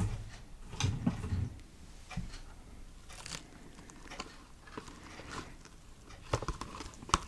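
Close-up ASMR trigger sounds: soft, irregular taps, clicks and light scratching on an object, with a few low thumps about a second in.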